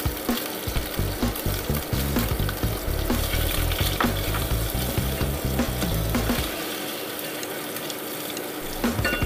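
Diced onion and garlic frying and sizzling in hot oil in a pot, with a slotted spatula stirring and scraping against the pan bottom.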